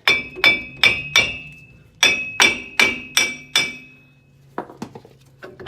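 Hammer strikes ringing off the corroded front wheel hub assembly of a 2012 Ford F-150 as it is knocked loose: a run of four quick blows, a short pause, then five more, followed by a few lighter metal clinks near the end.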